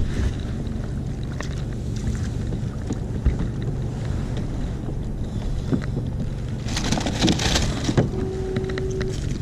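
Wind buffeting the microphone over water lapping against a kayak hull, with scattered small knocks and a louder splash-like rush about seven seconds in. A short steady tone sounds near the end.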